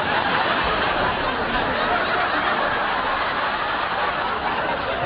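Studio audience laughing, a dense, steady wash of laughter.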